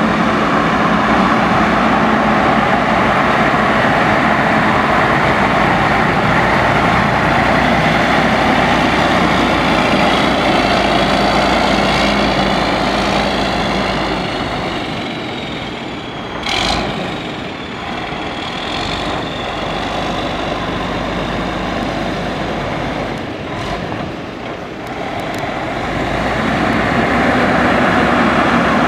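Diesel engine of a 2007 Western Star 4900 truck tractor running steadily. It grows quieter for several seconds past the middle, with a brief sharp sound as it dips, then comes back up near the end.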